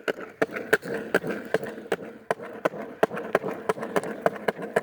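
Skateboard rolling over a jointed surface: a steady wheel rumble with a sharp clack about three times a second as the wheels cross the seams.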